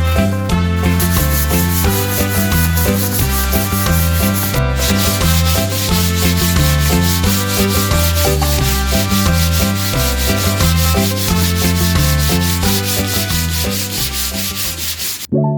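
Steady rasping of sanding over background music with a repeating bass line and a steady beat; both stop abruptly near the end.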